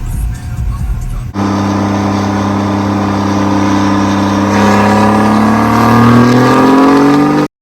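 Diesel truck engine running hard after a low rumble: it starts suddenly about a second in, holds a steady pitch, then revs up smoothly with its pitch climbing and growing louder before cutting off abruptly near the end.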